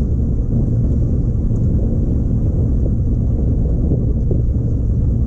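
Boat motor running steadily in reverse, a deep continuous rumble.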